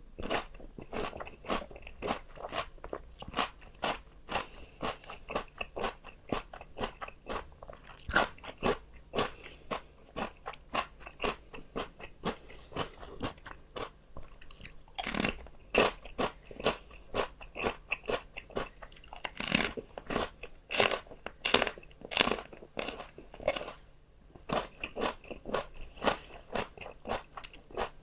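A person biting and chewing crunchy raw vegetables close to the microphone, a steady run of sharp crunches about twice a second.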